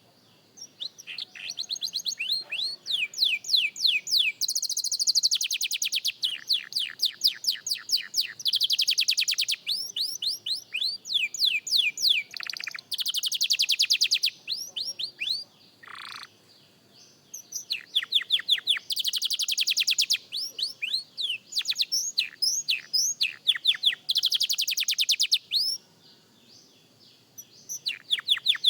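Young canary singing practice song: fast runs of rapidly repeated high notes, trill after trill, broken by a couple of short pauses.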